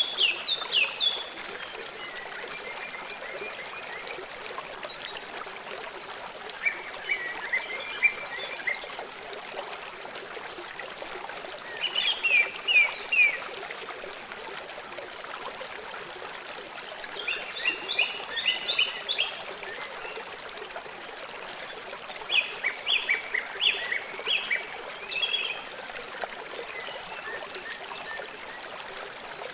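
Steady rush of a stream, with a bird singing six short bursts of quick, high repeated notes spread through it.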